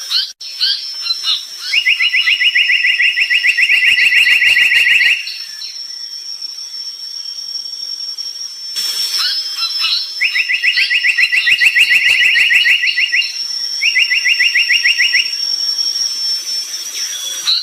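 Tali pocong bird singing: three rapid, evenly pulsed trills, a long one near the start, another in the middle and a shorter one near the end, with scattered short high chirps between them.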